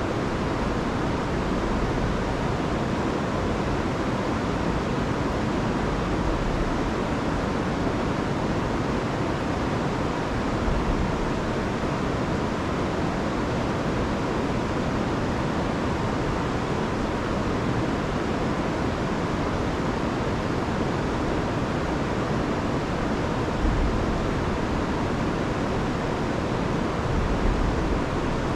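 River running high after a week of heavy rain: a steady, full rushing of water over rocks, with a few low rumbles of wind on the microphone.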